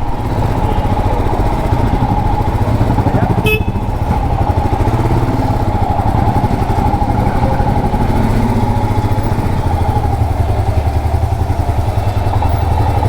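Royal Enfield Himalayan single-cylinder engine running steadily while the bike rides through city traffic, with a brief sharp sound about three and a half seconds in.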